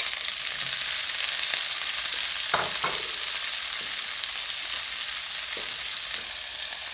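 Diced bell peppers sizzling in hot oil in a frying pan, a steady frying hiss, with a couple of light knocks about two and a half seconds in.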